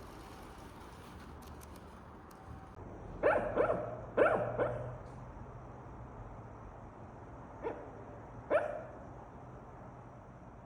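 A dog barking: a quick run of four barks, a pause, then two more.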